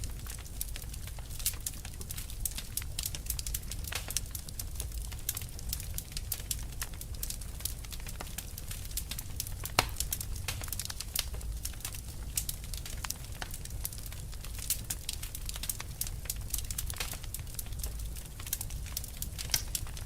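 Fire burning with dense, irregular crackles and pops over a low rumble, one sharper pop about halfway through.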